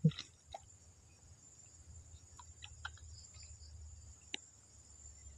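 Insects chirring steadily at a high pitch, typical of crickets, with a few short faint clicks scattered through.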